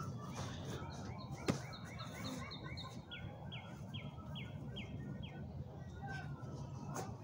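A songbird singing: a quick run of short repeated chirps, then a slower series of about six short downslurred notes, over faint outdoor background noise. A single sharp click sounds about a second and a half in.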